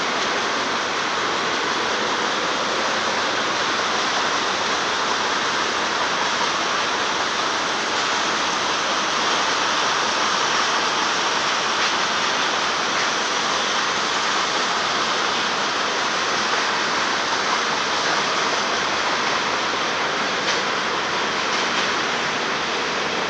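Freight cars of a Union Pacific manifest train rolling past, a steady loud roar of steel wheels on rail with a faint click or two near the end.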